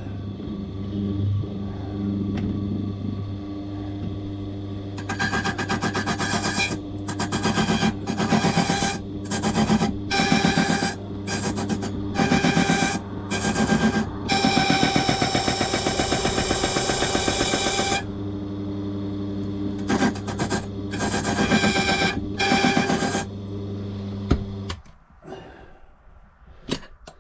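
Key-cutting machine running with a steady hum while its cutter rasps into a key blank for a lever safe lock. The cutting comes in repeated short passes, then one longer pass, then a few more. The motor switches off near the end.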